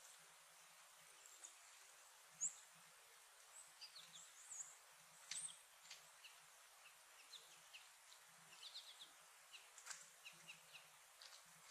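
Faint, scattered short chirps and chip calls of small songbirds, some as quick high sweeps, with a few soft low thuds in between.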